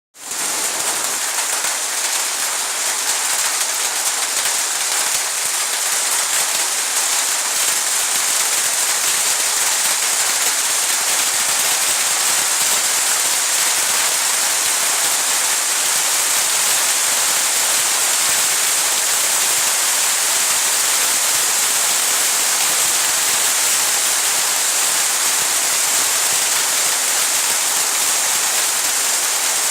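Heavy rain falling and pattering on surfaces in a steady, dense hiss.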